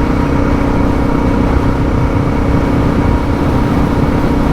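Suzuki DR650 single-cylinder engine running at a steady cruising speed, with wind and road noise heard on the rider's helmet mic. The pitch and level hold even throughout.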